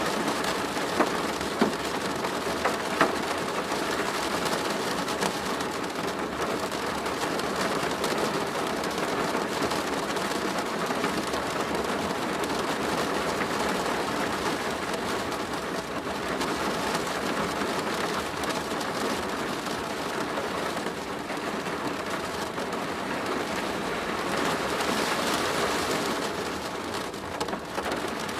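Steady rain falling on a plastic roof, a dense even hiss of drops, with a few single louder drop hits in the first few seconds.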